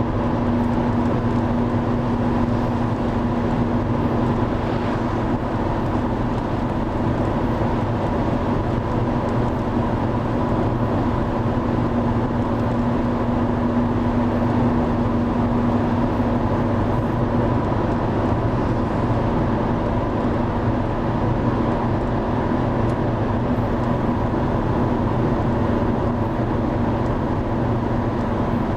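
Driva river in 50-year flood, its fast, high water rushing in a loud, unbroken roar, with a faint steady hum in it.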